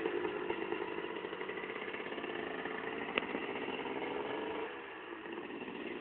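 Kawasaki KDX 250 two-stroke single-cylinder engine idling after being started. A sharp click comes about three seconds in, and the engine sags briefly just before five seconds before picking up again.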